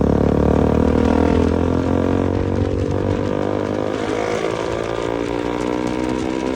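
KTM motorcycle with an aftermarket exhaust running under way, a steady buzzing engine note that climbs slowly in pitch as it gently accelerates.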